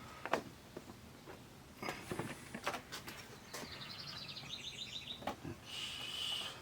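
Thin plastic optical sheets in an LCD TV's backlight assembly being handled and lifted: scattered light crinkles and clicks. A rapid run of high chirping notes comes about halfway through, and a short high-pitched squeak near the end.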